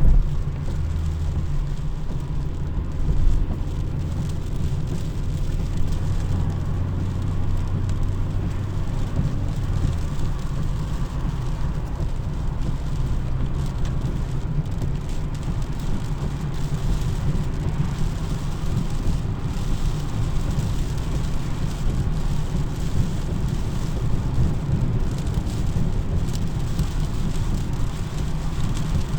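Steady rain mixed with the low rumble of a car on the road. A low hum in the rumble stops about ten seconds in.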